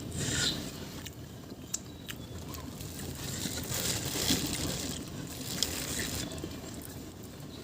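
Someone eating: chewing and crunching food, with a few sharp clicks.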